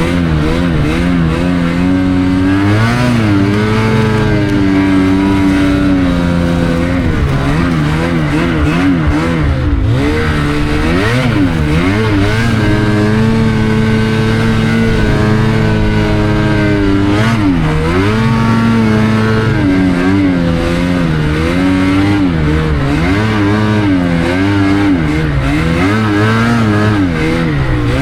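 Snowmobile engine running hard, its revs climbing and falling again and again as the sled is ridden through deep snow.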